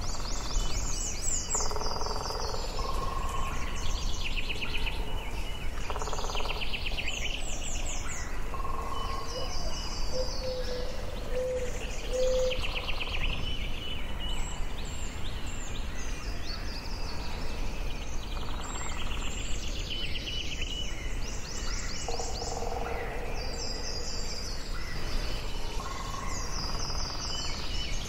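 Forest ambience with several birds singing and calling in turn, short high phrases repeating every few seconds, and a run of four short low notes about halfway through, over a steady low background rumble.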